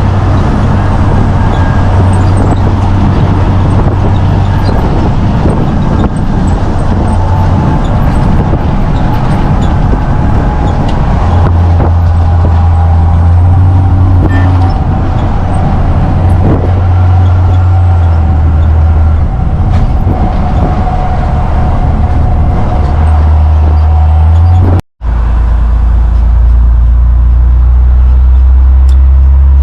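Military truck driving, heard from inside the cab: steady engine rumble and road noise, the low engine note stepping up and down a few times. The sound drops out for a moment near the end.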